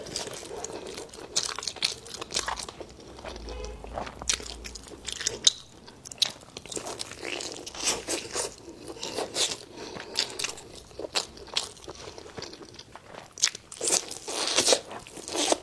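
Close-miked eating: a person biting and chewing crunchy food, with many short, irregular crunches and a louder run of them near the end.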